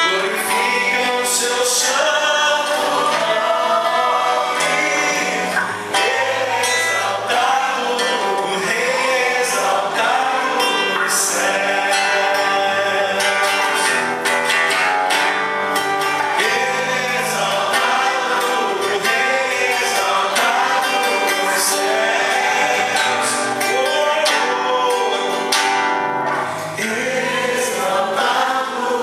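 Live church worship music: a band with guitar accompanying singers on a gospel worship song.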